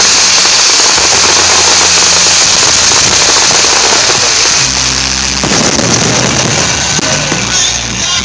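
Fireworks going off as a dense, continuous crackle with no separate bangs standing out, over music with a low bass line.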